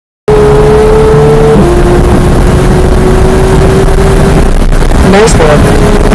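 Porsche 991 GT3's naturally aspirated flat-six running hard on track. Its steady pitch drops once with a gearshift about a second and a half in, climbs slowly, then dips and jumps with another shift about five seconds in, over wind and road noise.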